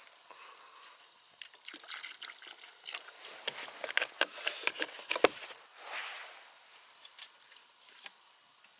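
Liquid trickling and dripping, with scattered small clicks and ticks and one sharp knock about five seconds in.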